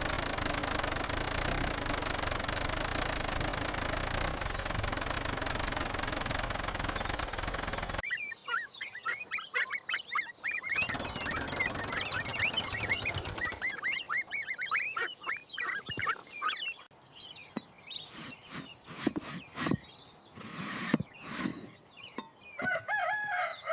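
A steady rushing noise for about eight seconds that cuts off suddenly, then chicks chirping rapidly for several seconds, a few scattered clicks, and a rooster starting to crow at the very end.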